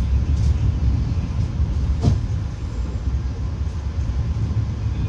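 Steady low rumble of a passenger train running at speed, heard from inside the carriage, with a single sharp knock about two seconds in.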